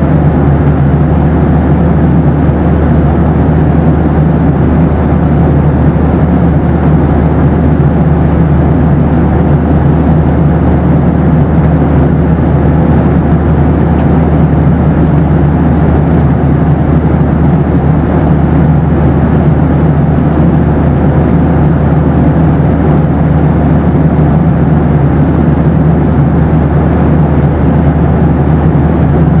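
Steady cabin noise of a Boeing 737: an unbroken deep rushing rumble of engines and airflow, with a faint steady hum running through it.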